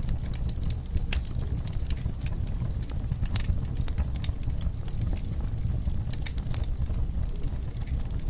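Fire crackling in a fireplace: frequent sharp, irregular crackles and pops over a low, steady rumble.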